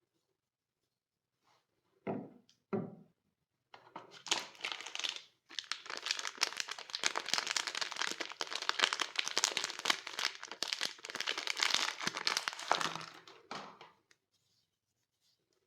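Two short knocks, then a soap bar's wrapper being torn open and crinkled for about ten seconds.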